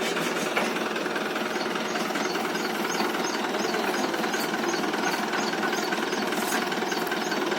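Tractor diesel engine running steadily with a fast, even clatter while it drives a bore well pump-lifting machine.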